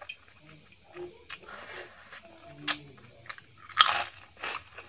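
Close-miked eating: chewing with a series of crisp crunches and bites, the loudest crunch about four seconds in.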